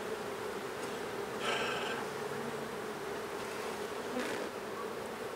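Honeybees from an open hive buzzing in a steady hum, with a brief louder, higher sound about one and a half seconds in. The colony is a little riled up by the inspection.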